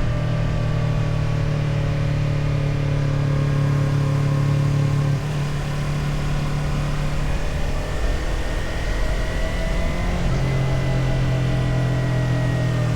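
Motorcycle engine running on the road, with wind rushing over the microphone. The engine note changes in steps about five seconds in and again about ten seconds in, and rises slowly in pitch between those two points.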